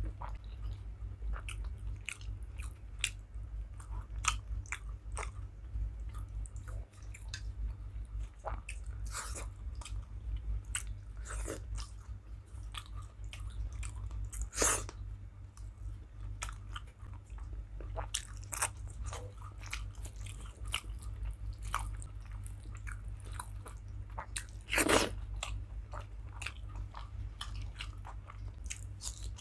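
Close-miked chewing and mouth sounds of a person eating a meal of rice with curries: a run of irregular small wet clicks and smacks, with two louder smacks about halfway and near the end. A steady low hum lies underneath.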